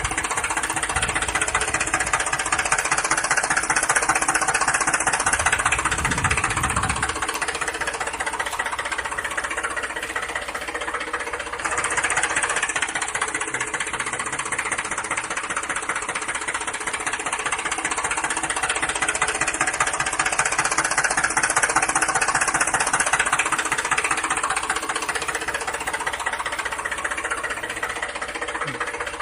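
Small electric motor and plastic gearbox of a toy remote-control vehicle running, a steady whirring buzz with a fast rattle that swells and fades slowly.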